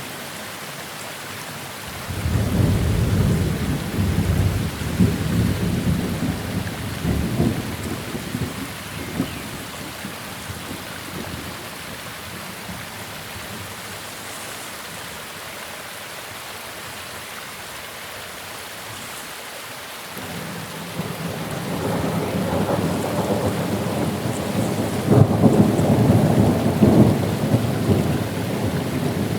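Two rolls of thunder over steady rain. The first breaks suddenly about two seconds in and rumbles away over several seconds; the second builds up gradually and is loudest near the end.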